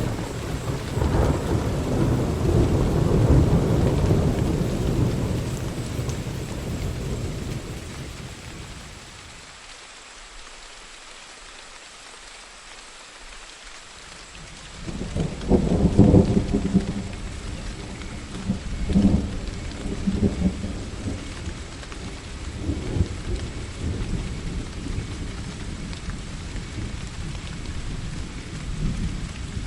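Steady rain falling during a thunderstorm. A long rumble of thunder rolls and fades over the first several seconds, and a louder peal breaks about halfway, followed by more rumbles.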